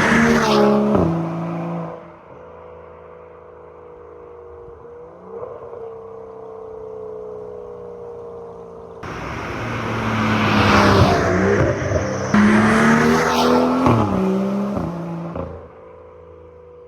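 BMW N55 turbocharged inline-six with a catless downpipe and straight-piped exhaust making fly-by passes. A first pass dies away over the first two seconds, the engine runs quietly in the distance with a short blip, then about nine seconds in it accelerates hard toward and past, with an upshift near twelve seconds, before its pitch drops and it fades away.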